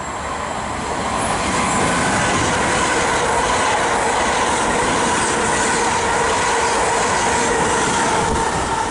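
Class 450 Desiro electric multiple unit running past the platform: a steady rush of wheels on rail with a level whine over it, swelling over the first two seconds and then holding loud.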